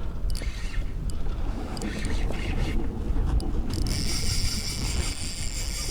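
Wind rumbling on the microphone while a fishing reel is worked during the fight with a large sheepshead, with a steady high whir setting in about two-thirds of the way through.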